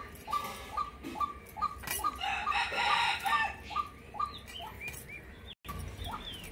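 A bird calling in a steady rhythm, short repeated notes about two and a half a second, with a brief rasping noise about two to three seconds in as fish are worked against a cutting blade.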